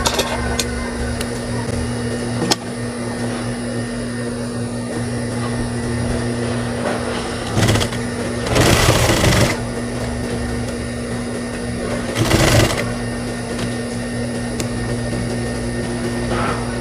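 High-speed sewing machine: the motor hums steadily while the machine stitches in short runs. The longest run, about a second, comes just before the middle, and another shorter run follows a few seconds later. A few light clicks sound near the start.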